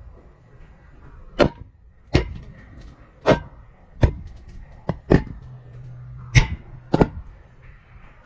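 A GoPro camera on a string knocking against the inside of a narrow pipe as it is lowered, about eight sharp knocks at irregular intervals, each with a short ring from the pipe.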